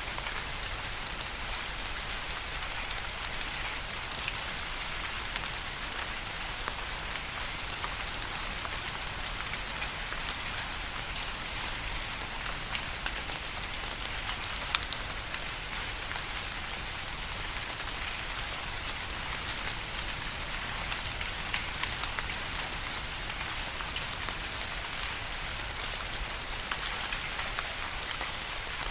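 Steady rain falling on a surface, a dense even hiss with many separate drops pattering.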